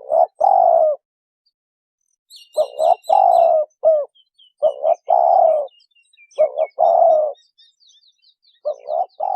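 Spotted dove cooing, repeating its phrase of two or three short notes and one longer coo over and over, about every second and a half to two seconds. Faint high chirps from a smaller bird run behind it from about two seconds in.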